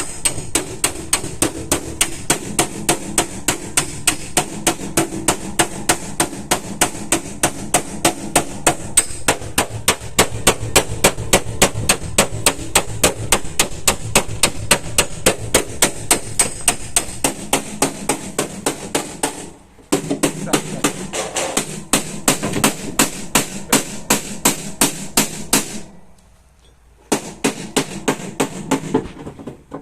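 A hammer taps car body sheet metal in a rapid, even rhythm, about three to four strikes a second, as a rear fender panel is worked back into shape. The tapping stops briefly about two-thirds through and again for about a second near the end.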